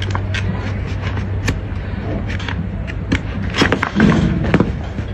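Hoof trimming on a donkey's hoof: irregular sharp clicks and scrapes of a trimming tool cutting hoof horn, with a louder cluster and a dull thud about four seconds in.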